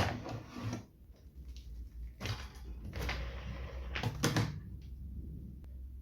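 Workshop handling noises: a sharp knock, then scraping and clattering as something is moved or slid about, with two more knocks a little after four seconds in.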